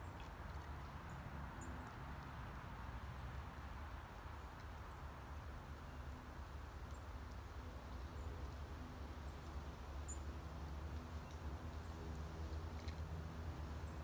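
Outdoor backyard ambience: a steady low rumble under a soft hiss, with many short, faint, high bird chirps scattered throughout.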